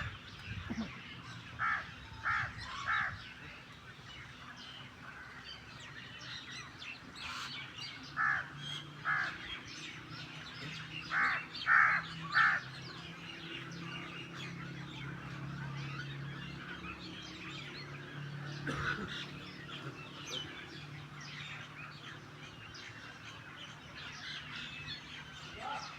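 Starlings and mynas chattering, with small chirps throughout and loud calls in short runs of two to four. The loudest run comes about halfway through.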